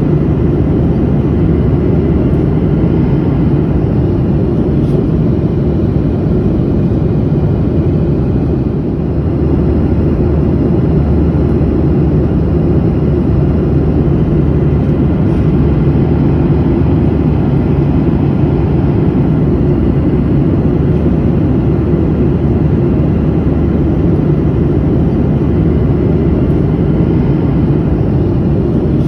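Airplane in flight, heard from inside the cabin: a steady, unbroken low rumble and rush of engine and air noise.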